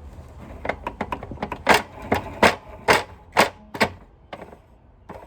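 A run of sharp plastic clicks and taps, irregular at first, then about two a second in the middle, then scattered: a Sanitaire upright vacuum part being handled and worked as 3-in-1 oil is put on it to free it up.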